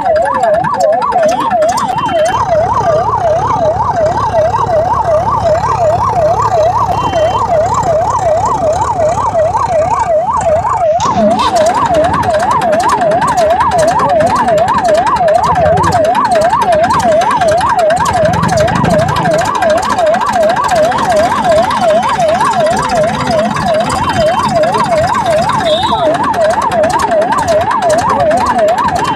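Electronic siren warbling fast and steadily, about three swings in pitch a second, breaking off briefly about ten seconds in.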